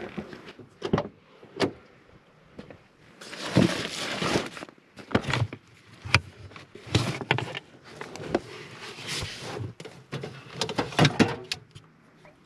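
Objects being handled: a string of irregular knocks and clatter mixed with rustling and scraping, the loudest bursts a little after three seconds in and again near eleven seconds.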